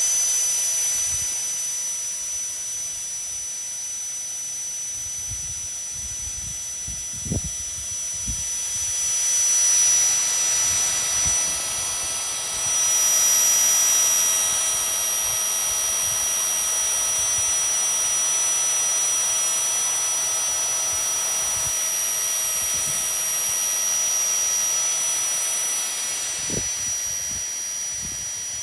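Flextail Tiny Pump X mini electric air pump running in deflate mode, sucking the air out of an inflatable sleeping mat. It gives a steady high-pitched whine that swells for a moment about halfway through.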